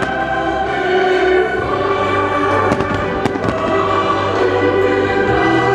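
Fireworks display: aerial shells bursting with several sharp bangs over loud, sustained music.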